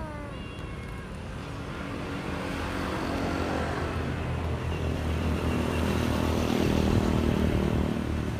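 A motor vehicle's engine passing by, growing louder over several seconds to a peak near the end and then easing off.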